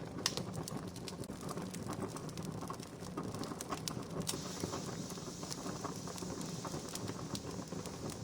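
Wood campfire crackling, with frequent sharp irregular pops over a steady low rush. About four seconds in, a steady hiss joins.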